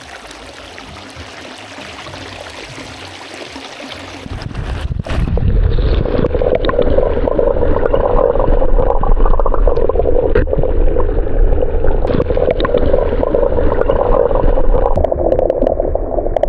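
Flowing stream water, first an open-air hiss, then about four seconds in a muffled, rumbling rush with the highs gone, as an action camera is dunked under the surface.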